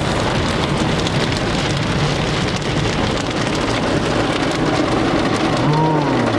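Car wash water spray drumming steadily on a vehicle's body, much like heavy rain on a roof. Near the end a brief tone rises and falls.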